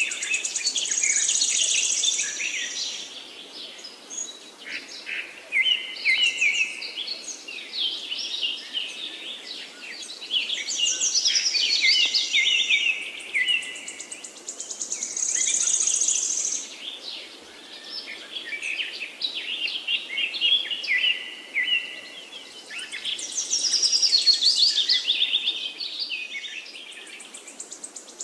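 Birds singing, with many quick chirps and trills overlapping, swelling and fading every few seconds.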